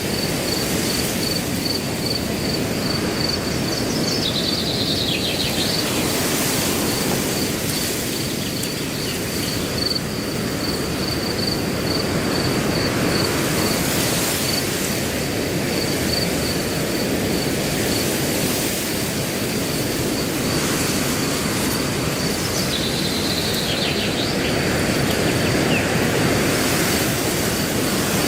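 Wind blowing steadily through grass, with a cricket chirping in an even pulse about three times a second. Twice, about four seconds in and again near the end, a brief bird call sweeps downward over it.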